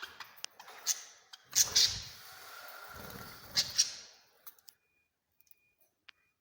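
Small pet birds chirping with rustling in their cage, with a few sharp clicks and two louder bursts of noise in the first four seconds, then near quiet.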